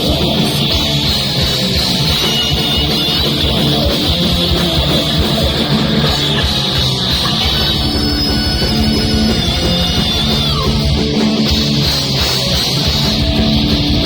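Heavy metal band playing live: fast drums and distorted electric guitars, with a high lead guitar line wavering above the band twice.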